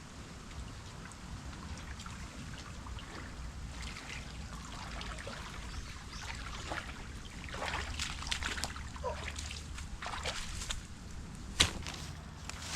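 Water trickling and splashing unevenly, with one sharp click near the end.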